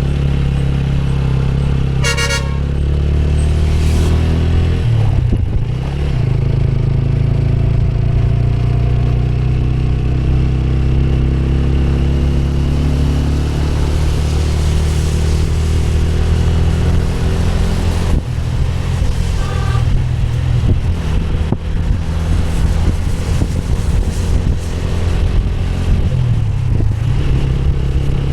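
Motorcycle engine running steadily on the road, with a short vehicle horn honk about two seconds in and a fainter brief beep later on.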